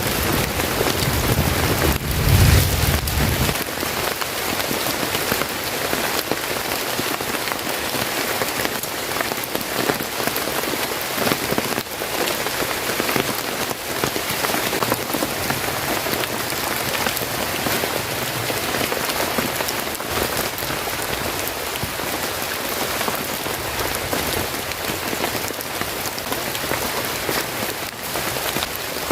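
Steady rain falling, a dense even patter. A low rumble sits under it for the first few seconds and then stops suddenly.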